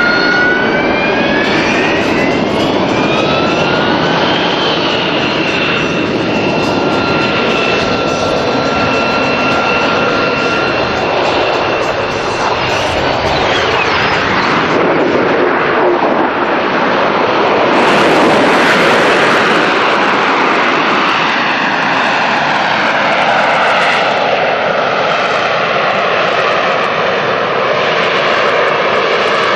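AV-8B Harrier II jump jet's Rolls-Royce Pegasus turbofan running loud, with a high whine that rises over the first few seconds and then holds steady over a heavy jet rush. It is loudest about two-thirds of the way through, and the whine then slowly falls in pitch.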